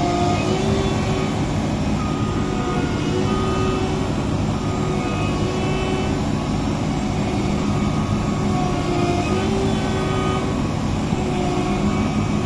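Tracked Massey Ferguson CS6050 combine harvester running steadily under load as it works its tracks out of deep mud, with short high tones coming and going over the engine.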